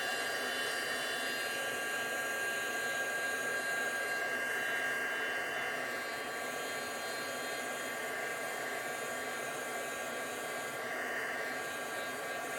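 Embossing heat tool blowing steadily: an even fan hiss with a thin steady whine over it. It is heating embossing enamel until it melts.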